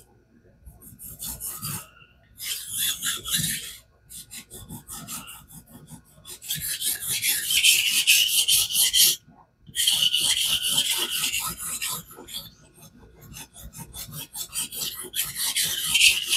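Knife edge scraping back and forth across a wet King whetstone held in a fixed-angle guided sharpener, in runs of quick strokes broken by short pauses. The strokes are raising a burr along the edge, with the tip lagging behind.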